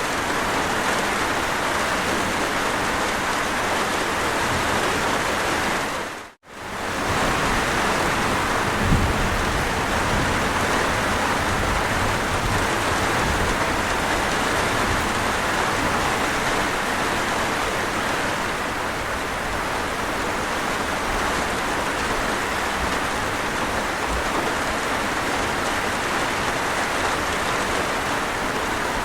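Steady, even rain. It cuts out for a moment about six seconds in and comes straight back.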